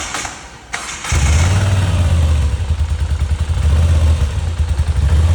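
FKM Victorino V-twin motorcycle engine starting: a short rattly cranking, then about a second in it catches and runs on with a loud, low, uneven pulsing beat through its stock exhaust.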